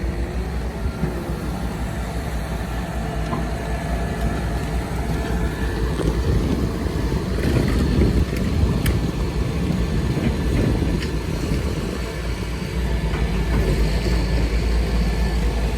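Bulldozer's heavy diesel engine running steadily, getting louder and rougher for a few seconds in the middle as it works. A few sharp metallic clanks come through.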